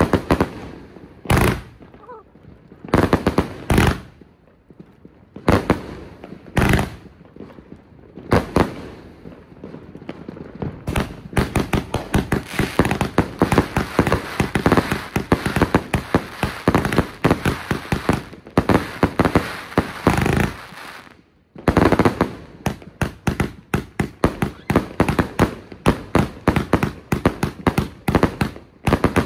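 Consumer fireworks going off: single loud bangs about every second or two, then a dense, rapid barrage of bangs and crackling for about ten seconds. After a brief break it starts again as a fast run of bangs.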